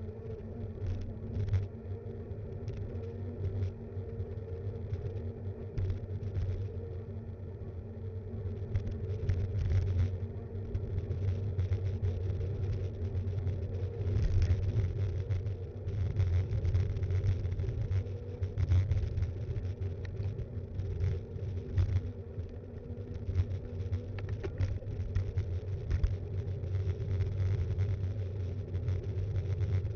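Steady low rumble of a mountain bike being ridden, picked up through its frame-mounted action camera, with frequent small knocks and rattles from bumps in the surface.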